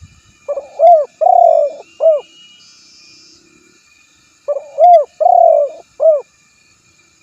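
Spotted dove (tekukur) cooing: two matching phrases about four seconds apart. Each phrase has four low notes: a short one, an arched coo, a longer coo and a final arched coo.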